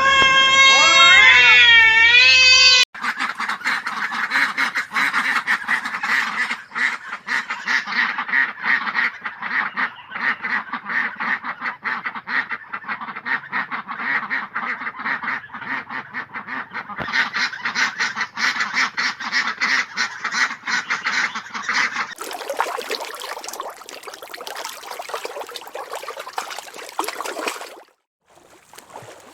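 Ducks quacking in a dense, rapid chatter, after a cat's meow that ends about three seconds in. Near the end the quacking gives way to a different hissing sound that cuts off suddenly.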